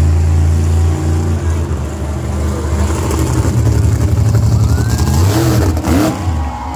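A motor vehicle engine running steadily, with a brief voice-like sound near the end.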